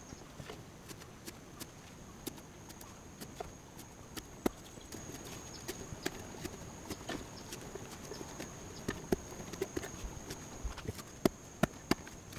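Irregular light knocks and clicks, several a second and unevenly spaced, with louder single knocks about four and a half seconds in and several close together near the end, over a low steady hiss and a thin, steady high tone.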